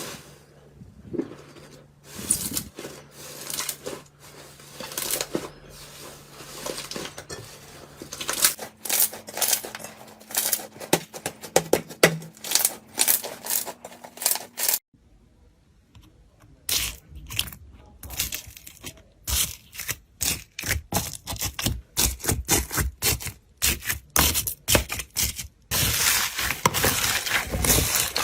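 Slime being squeezed and poked by hand: rapid crackling and popping clicks in clusters, with a brief pause about halfway through, then denser, faster crackling.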